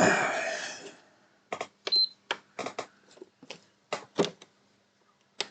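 A loud noisy burst that fades away over about a second, then a string of irregular sharp clicks and taps, with one very short high beep about two seconds in.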